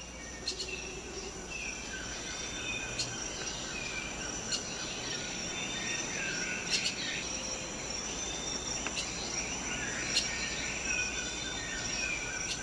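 Tropical rainforest ambience: insects keep up a steady high-pitched drone, with sharp chirps every second or two. Birds give short falling whistled notes now and then.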